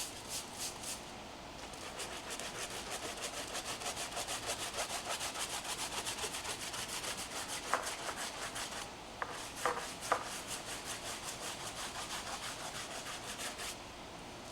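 Rapid back-and-forth scrubbing on a car's surface during a hand wash, a steady rasping rhythm of about four strokes a second. It pauses briefly about two-thirds of the way through, with a few sharp clicks around the pause.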